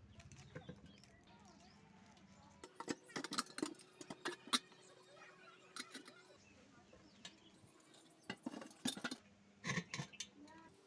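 Irregular metallic clinks and knocks in short clusters, metal pieces being handled and knocking together, over a faint steady hum.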